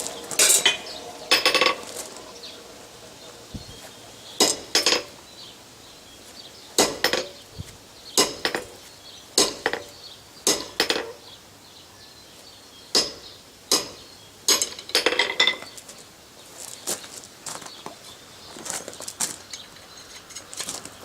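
Blacksmith's hammer striking steel at the anvil in sharp ringing blows, often in quick pairs about a second apart, cutting a short length off the end of a forged tenon.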